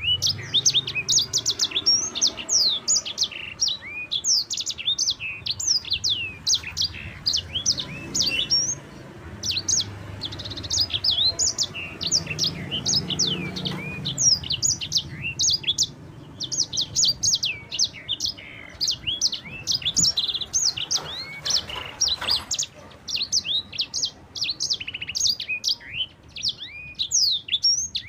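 A sanger, a small canary-type finch, singing a long, fast rolling song of quick sweeping whistled notes, with a few short lulls.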